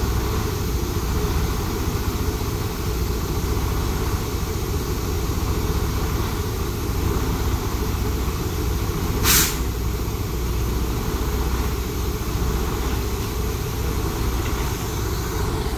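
Motor vehicle engine idling with a steady low rumble; a short, sharp hiss breaks in about nine seconds in.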